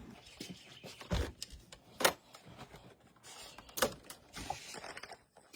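A handful of separate knocks and clicks, about a second or so apart, with quieter handling noise between them: things being moved and set down.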